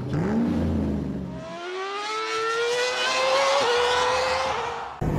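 Racing car engine sound effect for a logo intro: the engine note climbs in pitch in two sweeps, as if accelerating through the gears, with a brief hitch near the end before it stops.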